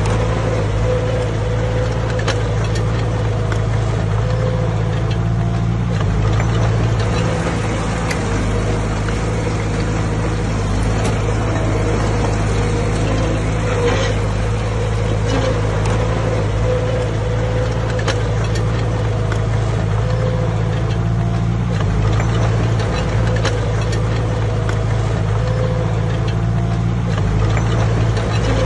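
Diesel engine of heavy earthmoving machinery running steadily, with a held mid-pitched whine over the low hum and scattered metallic clanks.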